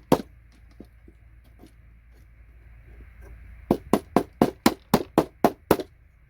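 Hammer striking a paint scraper to knock connectors off circuit boards. One knock at the start, a few seconds of faint small clicks, then a quick, even run of about nine sharp taps, about four a second, from a little past halfway.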